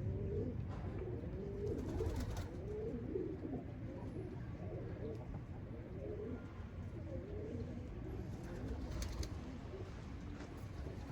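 Domestic pigeons cooing, several overlapping coos one after another over a steady low background rumble.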